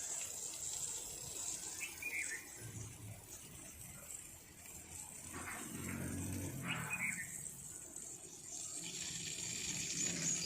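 Running water with a steady high hiss, and a few short calls over it about two seconds in and again around six to seven seconds in.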